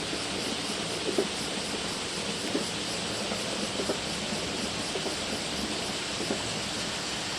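JR West 223 series electric train running on the rails: a steady rushing noise with a dull knock about every second and a bit, as its wheels pass over rail joints.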